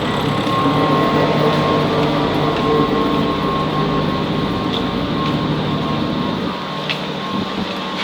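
Dumai Line passenger ferry's engines running steadily under way: a constant drone with a low hum and a steady higher whine, heard aboard, with a few faint ticks near the end.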